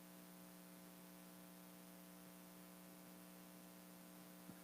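Near silence: a faint steady electrical hum from the sound system.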